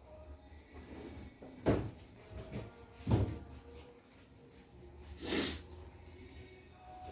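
Household knocks in a kitchen, like a cupboard door or drawer being shut: two sharp knocks about a second and a half apart, then a short hissing rush a couple of seconds later.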